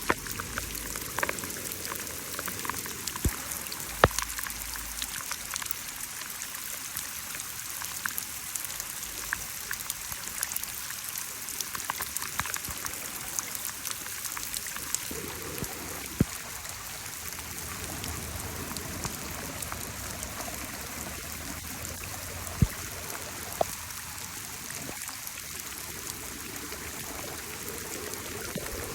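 Steady rain falling, with many small drop ticks and a few louder drops standing out, the loudest about four seconds in.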